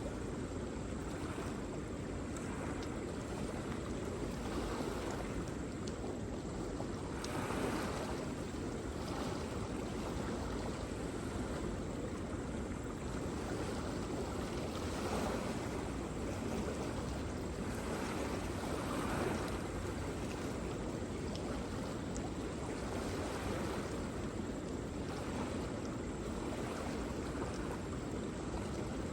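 Waterfall: a steady rush of falling water, swelling a little now and then.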